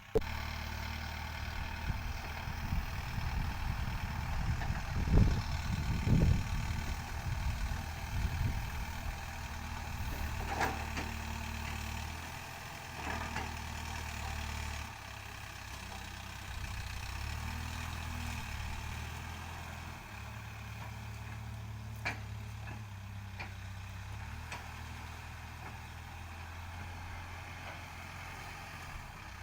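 Backhoe loader's diesel engine running, its speed stepping up and down as it works. A couple of loud knocks come about five and six seconds in.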